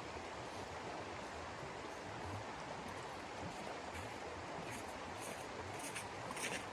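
Steady rushing noise with a few short rustles near the end.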